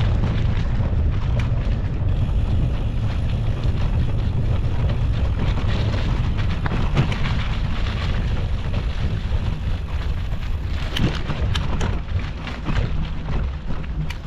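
Wind buffeting the microphone over the rumble of a mountain bike rolling along a dirt singletrack trail, with scattered clicks and rattles from the bike, a cluster of them about eleven seconds in.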